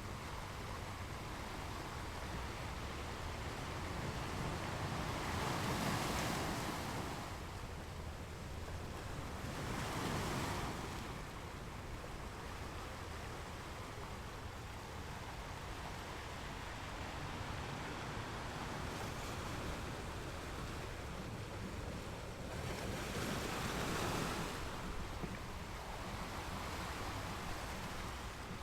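Ocean waves breaking and washing onto a beach, with a steady wash between three louder surges: about six and ten seconds in, and again near the end.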